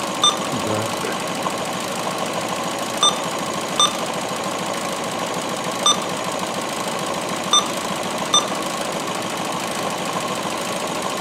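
Ford C-Max 1.6 petrol engine (code PNDA) idling with a steady mechanical clatter, the rough idle of a heavy misfire. The misfire comes from an ECU harness connector that has worked partly out of its port. Short electronic beeps from the lab-scope touchscreen sound six times at uneven gaps, some in pairs, as its settings are tapped.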